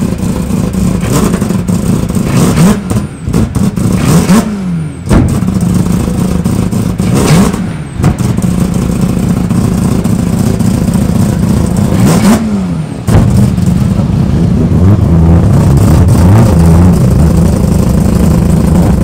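Old sedan's loud, deep-sounding engine running close by and being blipped several times, the revs falling back each time, as the car pulls away slowly.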